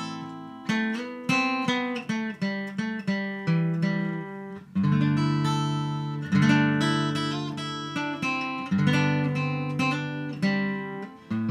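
Acoustic guitar introduction to a song: picked notes and strummed chords, each one struck and left to ring.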